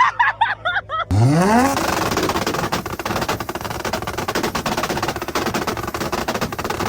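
A car engine revs up sharply, then is held on a two-step launch limiter, its exhaust firing a rapid, continuous string of pops and bangs.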